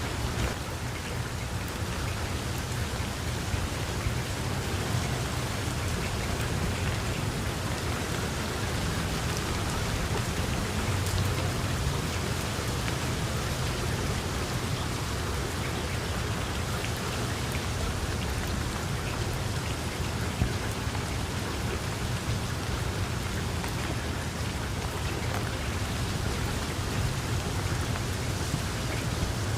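Heavy rain falling steadily, a dense hiss of drops with a low rumble underneath and occasional sharper drop hits.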